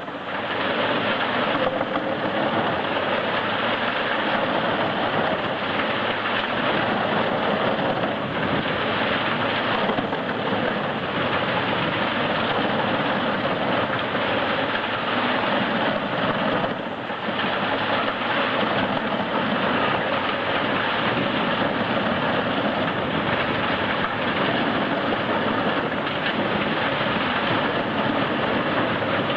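A heavy forestry wood chipper running and grinding wood, a dense, steady mechanical noise with a brief dip about 17 seconds in.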